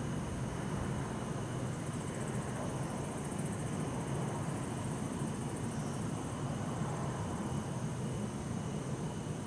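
Steady city-night ambience: a constant low rumble of distant road traffic, with bell crickets (suzumushi) trilling high and steadily over it.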